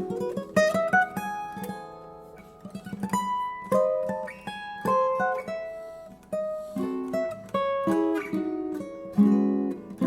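Solo jazz guitar playing plucked chords and single-note lines. A chord struck near the start is left ringing and fading away before the playing picks up again.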